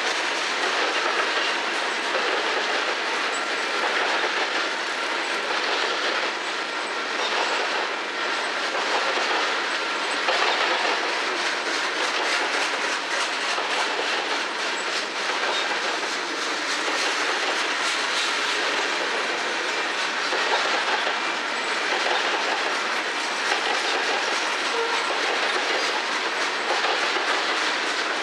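Freight train covered hopper cars rolling past at steady speed, their steel wheels clicking over the rail joints in an unbroken clickety-clack with a steady rumble of wheel-on-rail noise.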